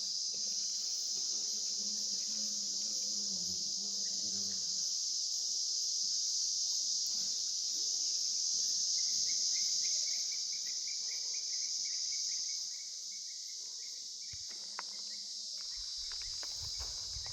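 Steady, high-pitched chorus of insects, crickets or cicadas, that dips slightly in level about three-quarters of the way through, with a short run of rapid chirps a little past the middle.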